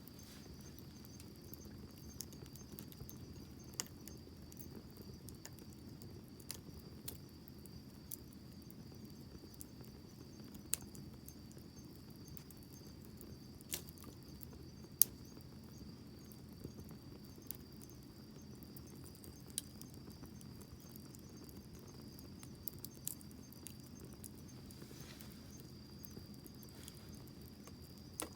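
Wood bonfire crackling, with irregular sharp pops over a low, steady rumble of the flames; the loudest pop comes about fifteen seconds in. A steady high-pitched note runs underneath.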